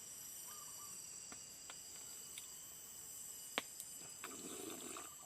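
Forest insects, crickets among them, trilling steadily in several high, even tones, with a few faint clicks and one sharper click about three and a half seconds in.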